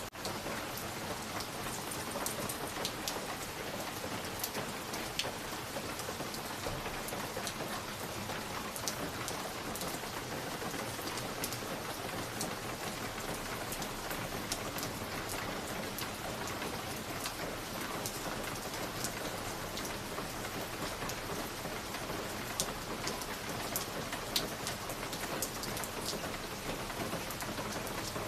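Wood fire crackling in a fireplace: a steady hiss with frequent small sharp pops and snaps scattered throughout.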